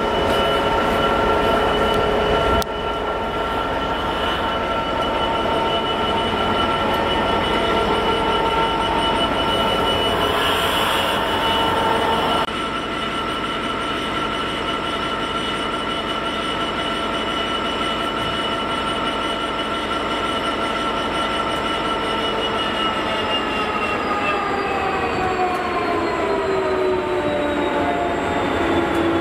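Diesel trains moving through a station: rail noise under a steady metallic whine of several tones, which slides down in pitch over the last several seconds as a diesel multiple unit slows into the platform.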